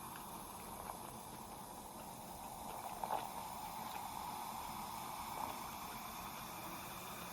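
Faint wet chewing and mouth sounds of someone eating, close to the microphone, over a steady hiss, with a few soft smacks, the clearest about three seconds in.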